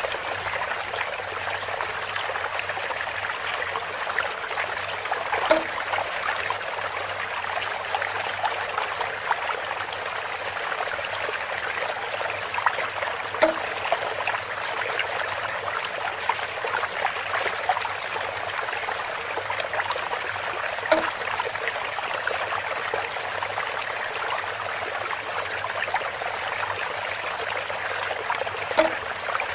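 Water trickling steadily through bamboo, with a short soft knock repeating about every eight seconds.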